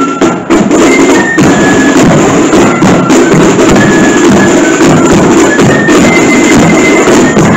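Marching flute band playing loud: high flute melody over steady snare and bass drumming, the drumming filling in about half a second in.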